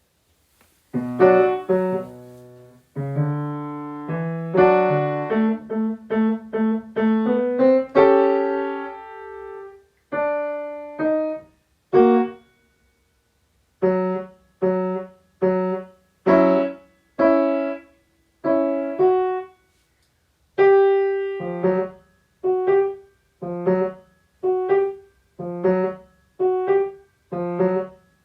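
Solo piano playing a phrase of separate notes and chords with short pauses between them. In the second half it settles into a steady repeated figure, one note or chord about every second.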